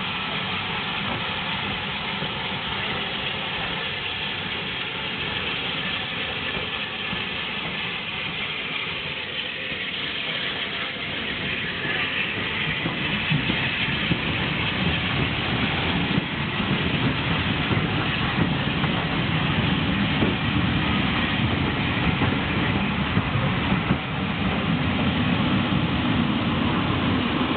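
Steam locomotive 34007 Wadebridge, a Bulleid West Country class Pacific, and its train running into the station, growing louder about halfway through as it draws nearer, with a low rumble and wheel noise.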